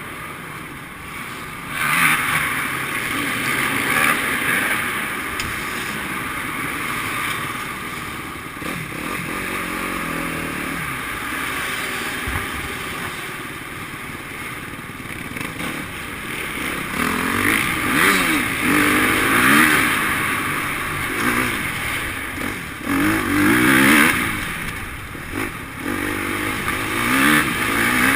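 Motocross motorcycle engines revving and easing off repeatedly, the pitch rising and falling with the throttle, with louder surges in the second half.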